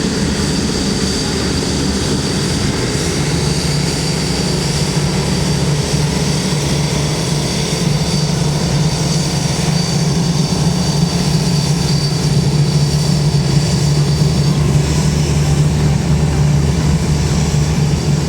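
Jet airliner engines running steadily: a loud low rumble that grows slightly louder, with a thin high whine that fades out about three-quarters of the way through.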